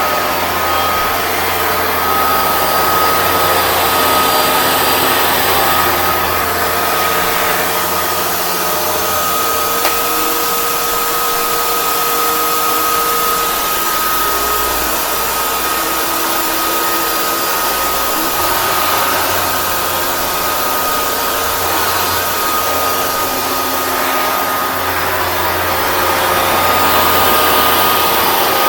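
Hoover Dual Power Max Pro (FH51010) carpet cleaner running steadily, its motor carrying a constant high whine over a loud rush of suction. The low hum underneath changes between about ten and eighteen seconds in, then returns.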